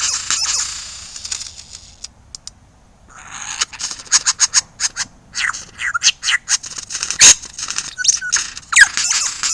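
Superb lyrebird calling: a dense run of sharp, loud clicks, chattering squeaks and short downward-sliding notes, after a brief lull about two seconds in.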